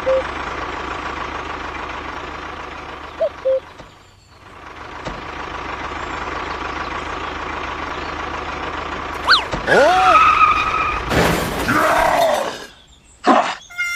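A small motor or engine running steadily, with a few short high blips in the first seconds. About nine seconds in, it gives way to a run of swooping, rising-and-falling effect sounds and bursts of noise.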